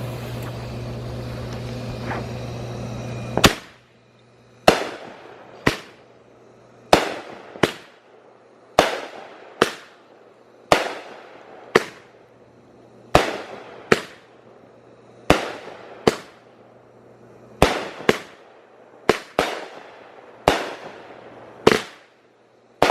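A steady low hum for the first few seconds, then the Let It Rip consumer firework cake fires shot after shot: about one sharp bang a second, some nineteen in all, each trailing off in an echo.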